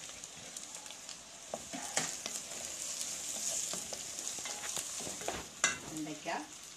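Chopped okra and onions sizzling in hot oil in a metal pan, stirred with a wooden spatula that scrapes and knocks against the pan now and then. The steady frying hiss runs under the stirring, with a sharper knock about two seconds in and another near the end.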